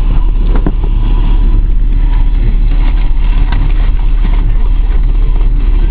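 Steady low rumble of a car engine running, heard from inside the car, with a few faint ticks.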